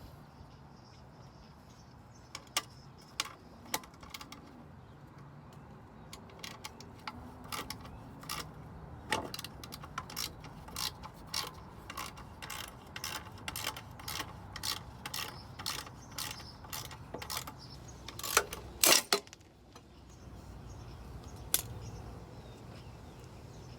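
Hand ratchet wrench clicking in runs of short strokes, with a few louder metal clacks near the end.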